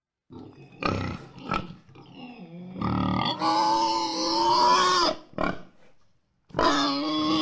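Domestic pig grunting: a few short grunts, then longer drawn-out pitched calls from about three seconds in and again near the end.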